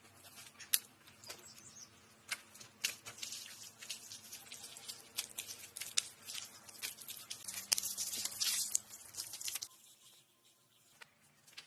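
Dry twigs and leaves rustling and crackling, with irregular sharp snaps; it stops abruptly about ten seconds in, leaving only a few faint clicks.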